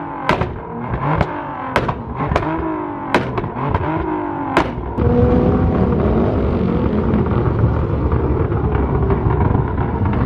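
A car engine revving with sharp cracks in the first half, then running loud and steady from about five seconds in.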